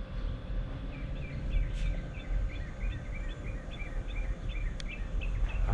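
A bird calling a steady series of short, evenly spaced chirps over a low background rumble.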